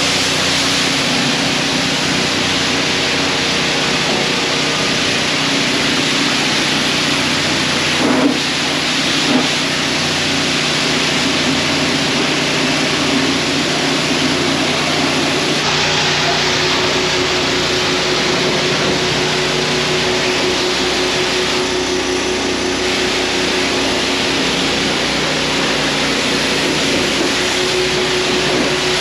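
High-pressure wash wand spraying water onto the side of a truck camper to pre-wet and rinse off caked mud: a steady loud hiss of spray with a steady hum underneath. There are two brief knocks about eight and nine seconds in, and a new steady tone joins about halfway through.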